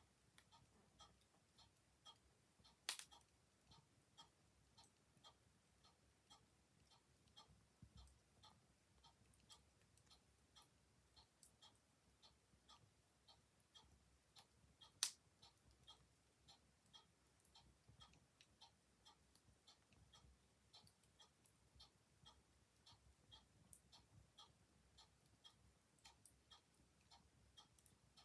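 Mechanical clock ticking faintly and evenly, about two ticks a second, with two sharp louder snaps from a wood fire about three seconds in and midway.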